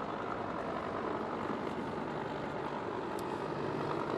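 AH-1 Cobra and UH-1 Huey helicopters hovering, a steady drone of rotors and turbine engines.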